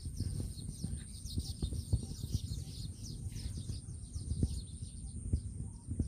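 Birds chirping in a fast, continuous chatter of short high notes, over irregular low bumps and rumble on the microphone.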